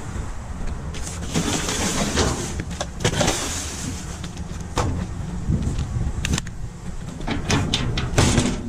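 Junk being rummaged through and handled: two stretches of rustling, then a run of sharp clicks and knocks in the last few seconds, over a steady low rumble.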